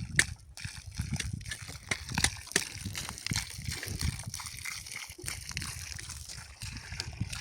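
Water sloshing and splashing, with many short irregular splashes and clicks.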